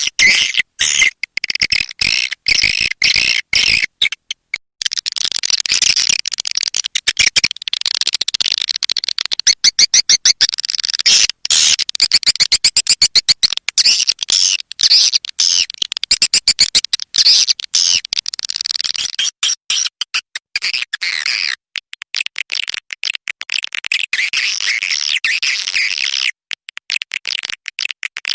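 Swiftlet calls of the kind played to lure birds into a swiftlet house: dense high chirping and twittering, broken by fast runs of clicks and short gaps.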